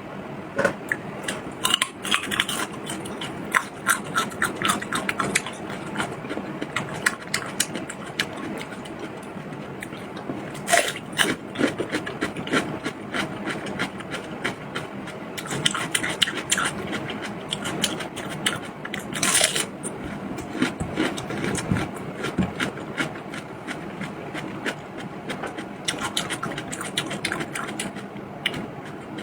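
Close-miked eating sounds: a person chewing and biting food, with many quick crackling clicks that come in clusters with short lulls between them.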